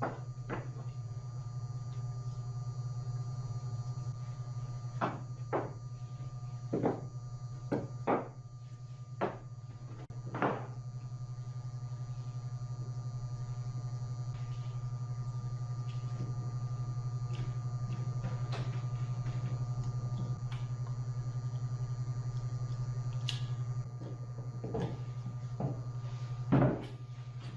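Scattered wooden knocks and clicks from timber parts being handled, over a steady low hum.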